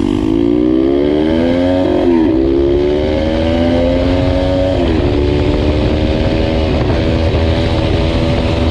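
Motorcycle engine accelerating through the gears. The pitch climbs, drops at upshifts about two and five seconds in, then holds nearly steady at speed.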